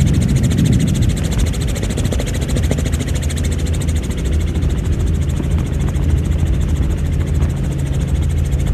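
Aircraft running: a loud, steady drone with a fast, even beat.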